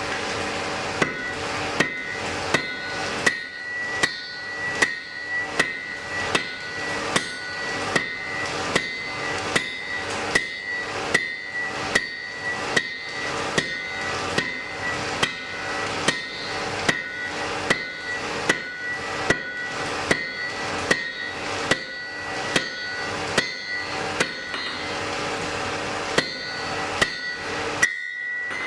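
Blacksmith's hammer striking an anvil in a steady rhythm, a little more than one blow a second, each blow ringing with a clear metallic tone. The blows stop briefly near the end.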